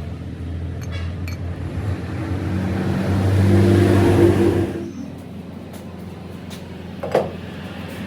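A vehicle engine running, growing louder to a peak about four seconds in, then dropping away abruptly a little later. A short single knock sounds near the end.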